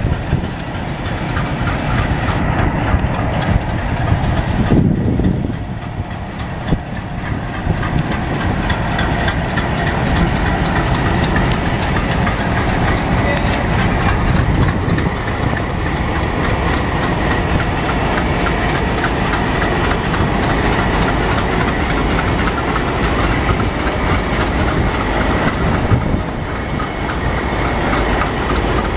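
Alco diesel locomotives running past with a train, the diesel engines going steadily under the rhythmic clickety-clack of wheels over rail joints.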